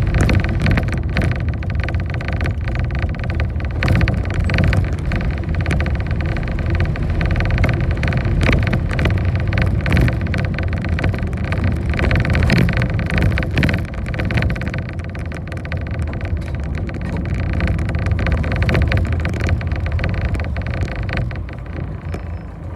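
City bus running along the road, heard from inside the cabin: a steady low engine and road drone with frequent clicks and rattles. It grows quieter near the end.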